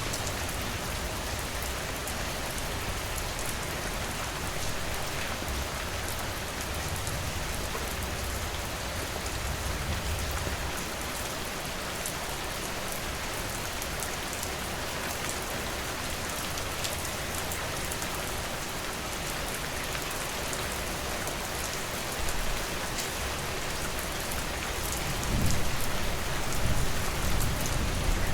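Steady rain falling, with single drops ticking through the hiss. A low rumble swells up about three seconds before the end.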